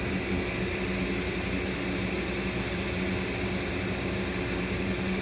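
Heavy demolition machine's engine running steadily, a constant drone with a steady whine on top and no impacts.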